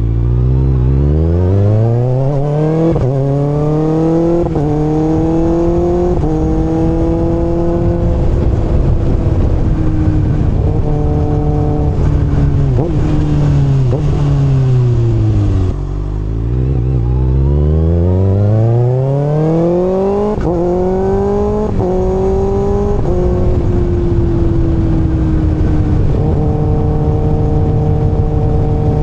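Kawasaki ZX-6R inline-four engine pulling up through several quick upshifts, the revs climbing and dropping at each change, then easing off with the revs falling before accelerating again through more upshifts. Near the end it settles into a steady cruise, with wind rushing underneath.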